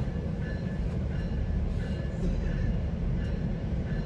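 GO Transit commuter train in motion: steady low rumble of wheels on the rails.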